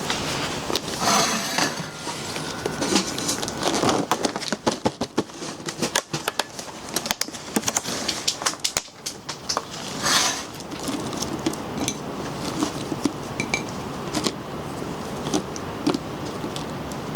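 Camp cookware and utensils being handled: a run of clinks, taps and knocks of metal pots, lids and cutlery, thickest in the middle, with a few short rustling swishes between.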